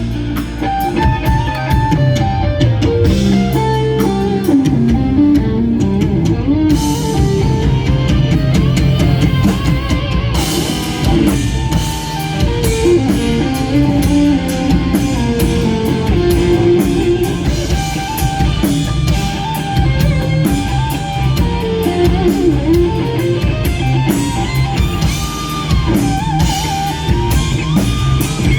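Live instrumental rock ballad: lead electric guitar plays a singing melody with pitch bends and vibrato over bass and a drum kit with cymbals.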